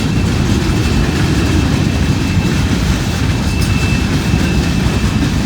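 Long freight train's cars rolling past on the rails, a steady heavy rumble, with a faint high steady tone above it.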